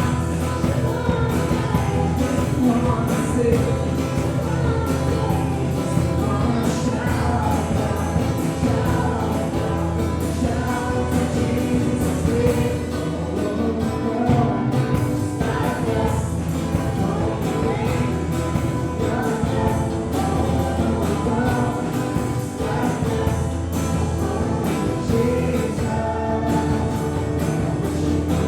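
Gospel worship music: singers with a live band, continuous and steady in level.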